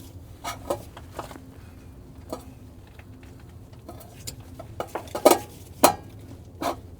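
A few scattered metal clicks and knocks as a new spin-on oil filter is snugged down on a semi-truck engine, over a steady low hum.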